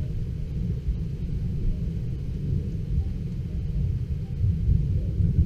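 Thunder rumbling on after a close lightning strike: a low, unsteady rumble that swells and fades without a break.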